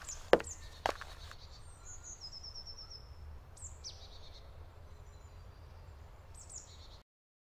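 Quiet forest ambience with songbirds calling: short high chirps, including a quick descending series of notes about two seconds in. A couple of sharp knocks in the first second, and the sound cuts off abruptly shortly before the end.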